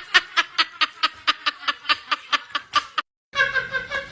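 Rapid, rhythmic snickering laughter, about seven short 'heh' pulses a second, gradually fading. It cuts off abruptly about three seconds in, and after a brief gap a different pitched, call-like sound begins.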